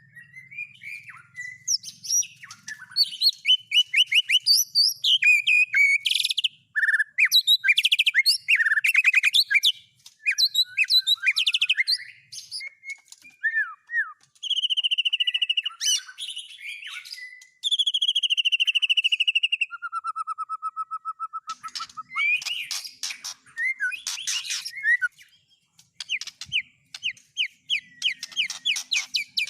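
White-rumped shama (murai batu) singing a long, varied song of fast trills, rapid runs of repeated notes and short whistles, phrase after phrase with brief pauses. The song carries mimicked filler phrases of other songbirds, and includes a lower, even trill about two-thirds of the way through.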